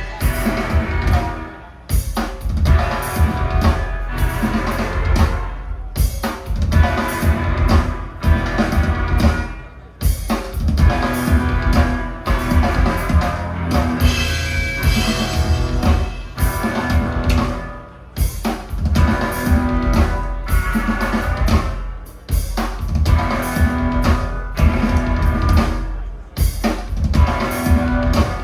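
Live band music, loud and drum-driven, with a heavy kick drum and snare under pitched instruments. The music pulses with short breaks about every four seconds.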